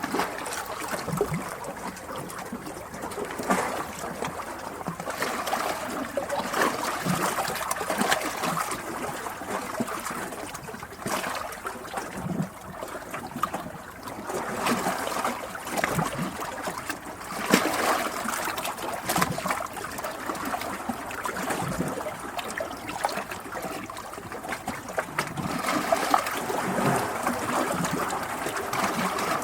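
A stream of water trickling and gurgling steadily, with frequent small irregular splashes.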